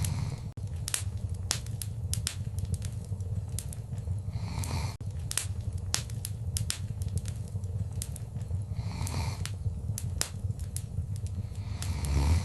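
Wood fire crackling in a fireplace: frequent sharp pops and snaps over a steady low rumble, with a soft swelling hiss that comes back about every four and a half seconds.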